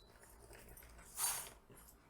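A calligraphy nib pen making one scratchy stroke across paper, about a second in, lasting about a third of a second.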